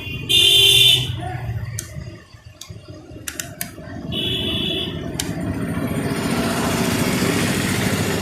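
Road traffic: two short, high-pitched vehicle horn beeps about four seconds apart, a few light clicks, then the rush of a passing vehicle building up in the second half.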